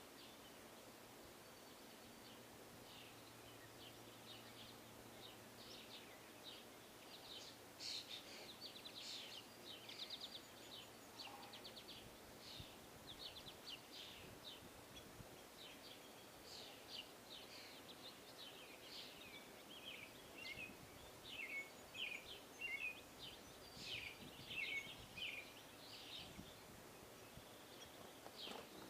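Small birds at feeders chirping, many short high calls in quick series over a steady faint hiss.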